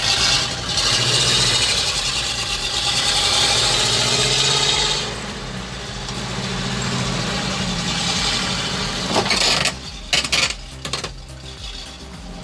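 Truck engine running hard under load, with loud rough noise over it for the first five seconds before it settles lower; a few sharp knocks come about nine to eleven seconds in.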